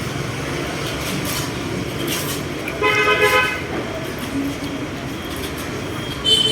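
A vehicle horn sounding once, briefly, about three seconds in, over steady traffic noise.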